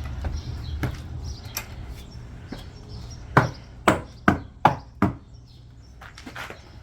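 A row of five sharp knocks, evenly spaced and a bit under half a second apart, around the middle, with a few fainter knocks before them. These are blows struck at the porch steps while trying to free a trapped kitten.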